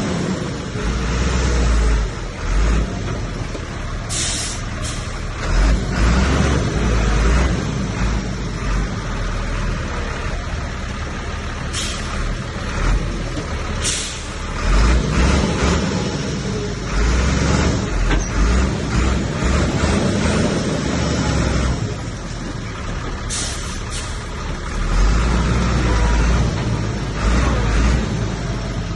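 Heavy diesel earthmoving machinery running under load, its low engine rumble rising and easing. A few short, sharp hisses cut in over it.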